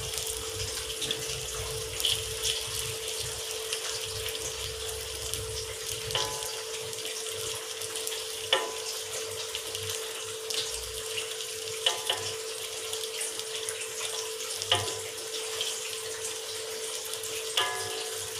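Egg omelette frying in hot oil in a metal wok, with a steady sizzling hiss and a faint steady hum underneath. A metal ladle clinks against the wok about six times while spooning oil over the egg.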